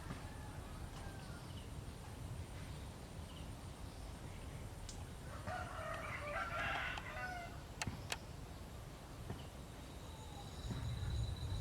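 A rooster crowing once, about midway through, over a steady low rumble. Two sharp clicks follow shortly after.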